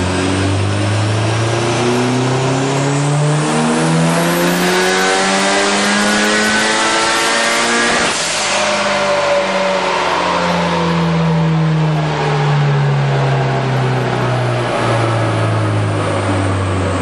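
Turbocharged 2006 Subaru STi flat-four making a full-throttle dyno pull: the engine note climbs steadily through the revs for about eight seconds, then falls away as the car winds back down on the rollers.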